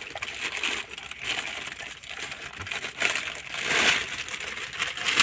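Plastic packaging crinkling and rustling in irregular bursts as items are handled and pulled out of it.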